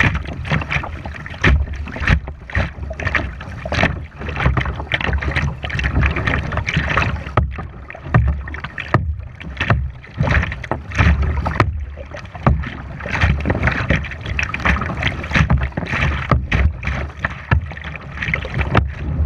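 Kayak paddling: irregular paddle splashes and knocks against the water and hull, over a heavy low rumble of wind buffeting the action camera's microphone.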